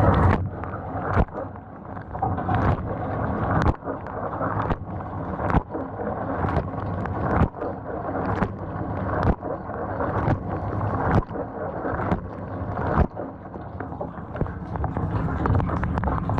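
GE GDT655SSJ0SS dishwasher running, with a steady rush of water and a short sharp knock about once a second. The dishwasher has the fault of a lower spray arm that does not spin, caused by a gummed-up valve.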